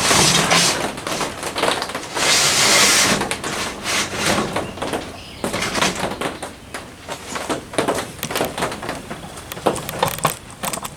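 Rain drops tapping irregularly on a greenhouse roof, heard from inside. There are two louder rushes of rustling noise, one at the very start and one about two seconds in.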